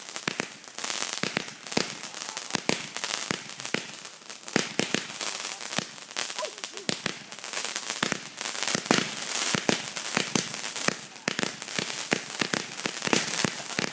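Boxed consumer fireworks cake going off: a fast, irregular string of sharp bangs and crackles with no let-up.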